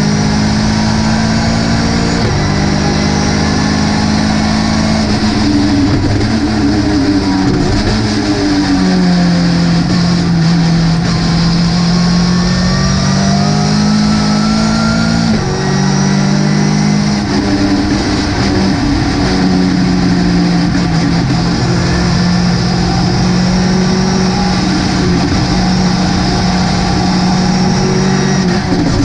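Ginetta GT5 race car engine heard onboard at racing speed. Its note holds, falls and climbs again as the car brakes and accelerates, with sudden jumps in pitch at the gear changes.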